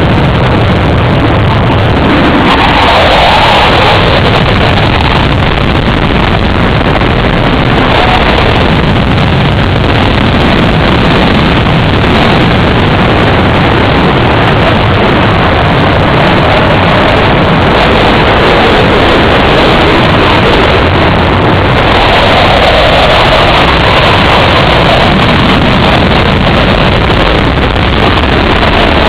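Loud, steady aircraft engine noise that swells briefly a few seconds in and again near the end.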